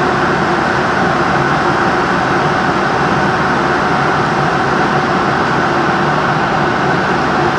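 Airplane cabin noise in flight: a loud, steady, even rush with a few faint steady hums in it, heard from inside the cabin.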